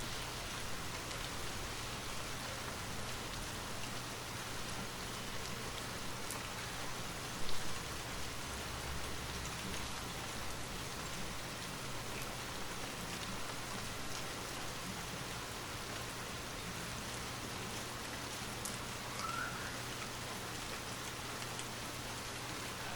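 Steady rain falling, an even hiss with scattered sharper drop ticks. A brief low thump comes about a third of the way in.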